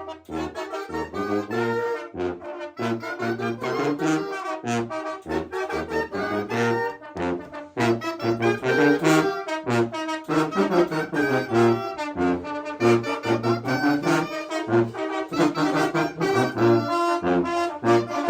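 Brass band playing a chilena, with brass instruments carrying a fast, busy melody of short notes.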